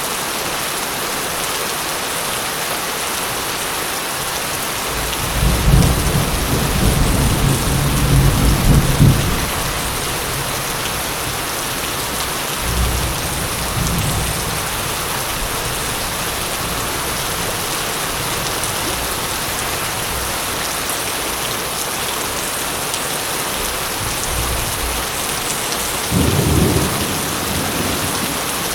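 Steady heavy rain falling, with thunder rumbling deep and long about five to nine seconds in, briefly around thirteen seconds, and again shortly before the end.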